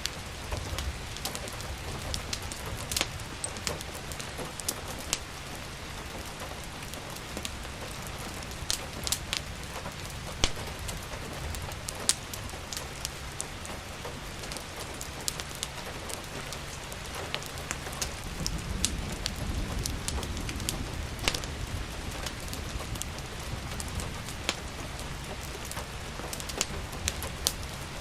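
Steady rain mixed with the crackle of a wood fire: an even hiss with scattered sharp pops and snaps throughout. A low rumble swells up about two-thirds of the way through.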